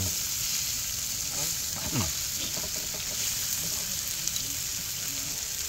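Daechang (beef large intestine) with onions and chives sizzling on a hot round griddle pan as tongs stir and lift the pieces: a steady frying hiss.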